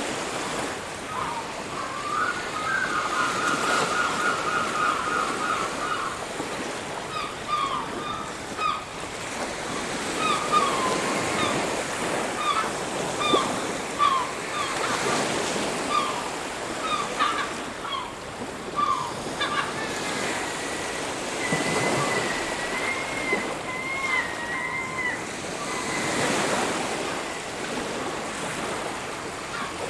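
Waves washing on a beach, a steady surf with slow surges. Bird calls come over it: a rapid trill a few seconds in, then a run of short chirps, then a long wavering whistle in the second half.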